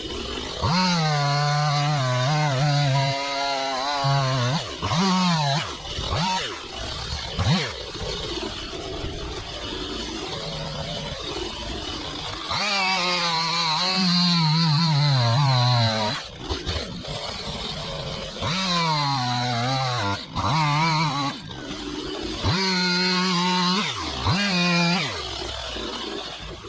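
Chainsaw revved up to full throttle in several long stretches, its pitch sagging as it bogs under load in the cut and falling back toward idle in between.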